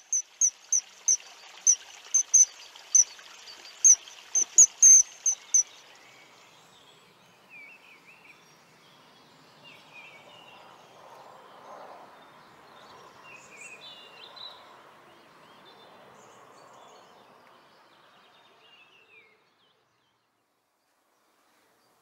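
Wild birds singing: a rapid series of loud, sharp high chirps, about two or three a second, for the first five seconds, then softer, varied whistled calls over a faint steady hiss. It cuts off about nineteen seconds in.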